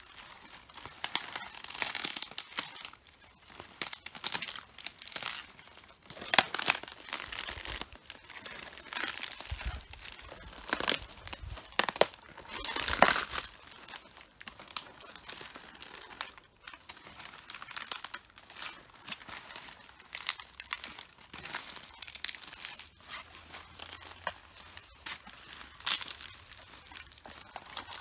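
Red cabbage leaves being crushed underfoot: a steady run of irregular crisp crunches and crackles of leaves breaking and tearing, with a few louder crunches through the middle.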